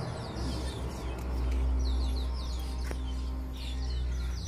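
Birds chirping steadily outdoors: many quick, high, downward-sliding chirps in close succession, over a low steady hum, with a single sharp click about three seconds in.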